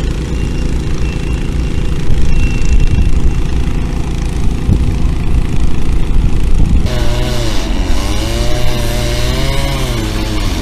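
Engine running steadily. From about seven seconds in, its pitch wavers up and down as the engine speed changes.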